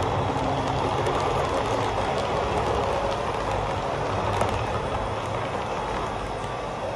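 Train passing, a steady rolling rumble that slowly fades as the last coaches go by.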